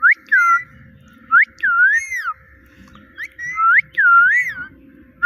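A pet parrot whistling: about nine short, clear notes, each rising then falling in pitch, given in quick clusters of two to four with brief pauses between.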